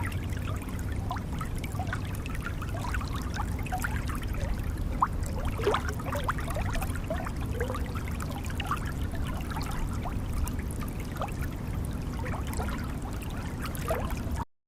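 Water gurgling and trickling: many small bubbly blips over a steady low rumble. It cuts off suddenly near the end.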